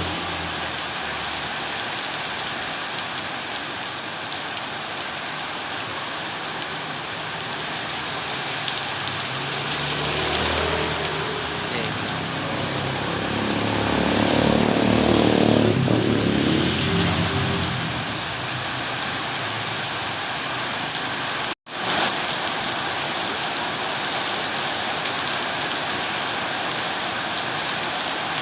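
Steady heavy rain hissing on a surface. A low rumble swells and fades about halfway through, and the sound drops out for an instant about three-quarters of the way in.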